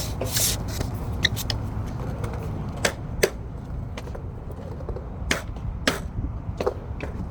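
Skateboard rolling on concrete with a steady low rumble of wind on the microphone. Sharp clacks of the board and trucks striking the surface come about seven times, the loudest pair around three seconds in.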